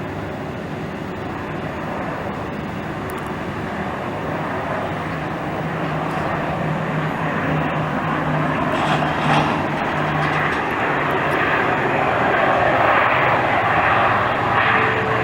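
Dornier 328's twin turboprop engines and propellers running, a steady low hum that grows steadily louder as the aircraft comes in to land.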